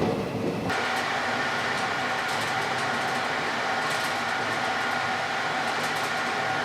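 A train's running rumble that breaks off abruptly under a second in, giving way to a steady, even hiss with a faint high hum.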